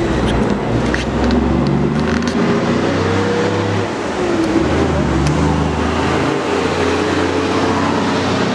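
A machine running steadily: a low hum whose pitch wavers up and down, with a few faint clicks over it.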